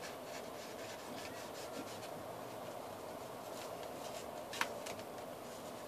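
Faint rubbing and rustling of paper and tape being handled and smoothed down on a paper airplane, with one sharper click about four and a half seconds in.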